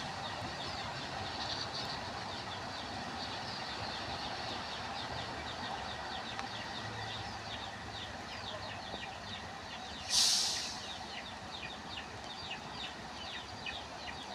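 Small birds chirping rapidly and continuously over a steady background noise. About ten seconds in, a brief loud hiss cuts in and fades away.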